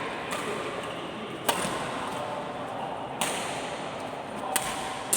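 Badminton rackets striking a shuttlecock back and forth in a rally: about five sharp cracks, roughly one to one and a half seconds apart, the second and third the loudest, echoing in a large hall.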